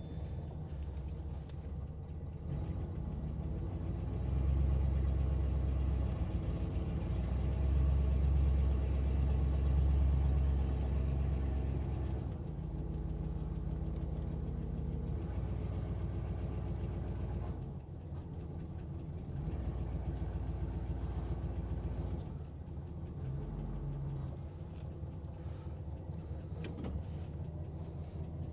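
Old Chevrolet Impala's engine running at low speed, picking up twice in the first half and then settling, as the car is driven onto a car-transport trailer.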